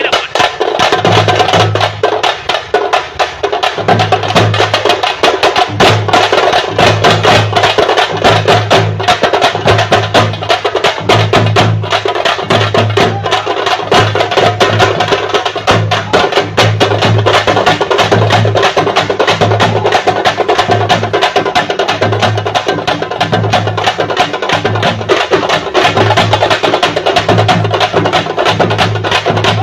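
Thappu (parai) frame drums beaten fast and hard in a thappattam, a dense stream of sharp cracking strokes. A deep thud marks a steady beat underneath, roughly once a second.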